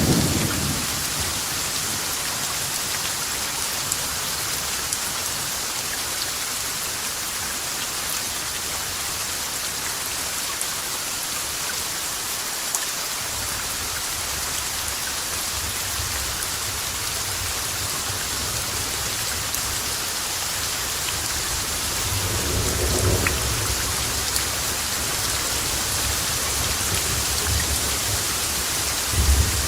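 Steady heavy rain falling, with rolls of thunder rumbling low beneath it, one swelling about two-thirds of the way through and another near the end.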